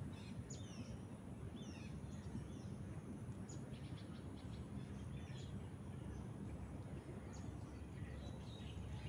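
Birds chirping: many short, high notes, some sliding down, scattered throughout over a steady low background rumble.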